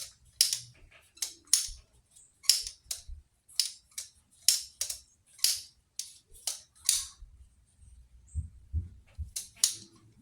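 Oil being squirted from a hand pump sprayer in quick, short hissing squirts, often two at a time, about a dozen and a half in all, with a pause near the end where a few low knocks of handling are heard.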